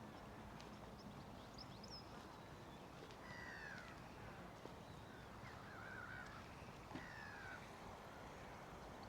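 Faint birds calling: scattered short chirps and a few falling whistled notes over a quiet, steady background.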